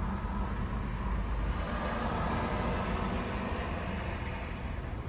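2020 Nissan Altima engine running, revved up about a second and a half in and easing back down near the end. It runs much better now that a loose connector, the cause of the misfire, has been reseated.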